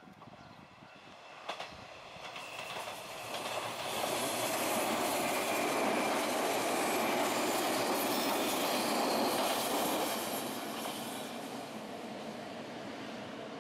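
JR 183-series electric limited express train passing, its wheels running over the rails: the sound builds as it approaches, is loudest for about six seconds as the cars go by, then fades as it pulls away.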